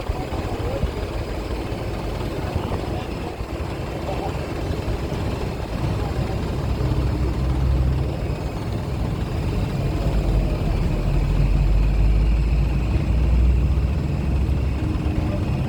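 Heavy diesel vehicle engine running with a deep rumble that grows louder from about six seconds in, amid a general hum of traffic at a ferry dock.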